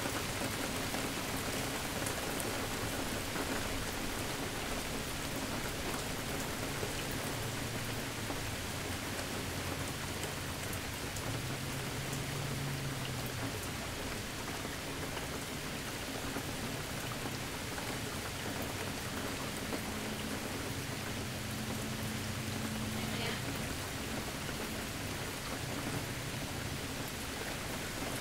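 Steady rain falling on surfaces, with a low rumble of distant thunder coming and going underneath.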